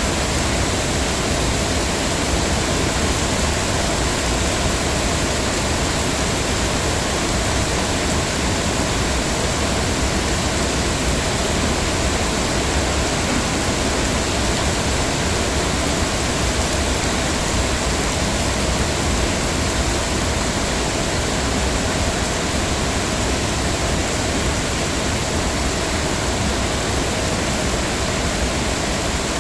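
Heavy rain falling steadily, a dense even hiss with no distinct drops or breaks.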